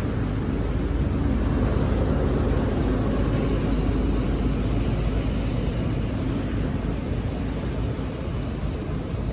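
Water rushing through a cleared drain or culvert: a steady, low rumbling rush, swelling slightly a second or so in.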